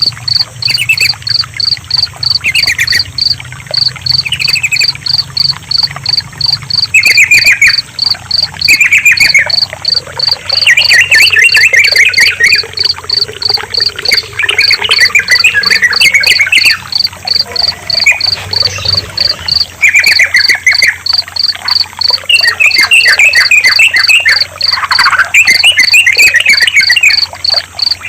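Yellow-vented bulbul (trucukan) singing short phrases of rapid notes, each about a second long and repeated with brief gaps, running into longer bursts later on. Under the song, crickets chirp steadily in a high, evenly pulsed trill.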